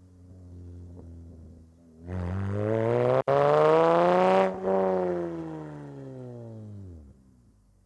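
Toyota 2GR 3.5-litre V6 engine in a mid-engined MR2 idling, then revved up in one smooth climb that holds for a moment and falls back. The revs then drop right away and the engine goes quiet about seven seconds in.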